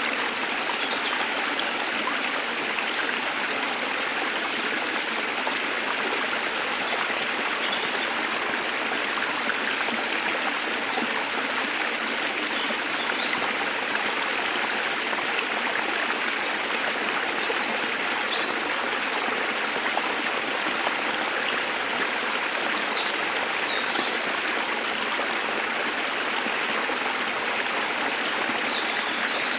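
Waterfall water rushing steadily, with a few faint, brief bird chirps now and then.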